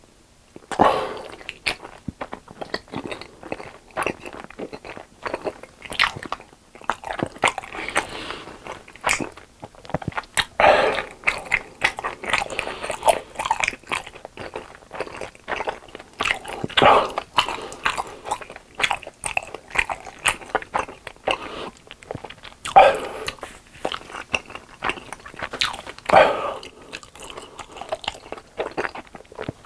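Close-miked eating: crunchy bites and chewing, with sharp crunches and several louder bursts of mouth noise at uneven intervals.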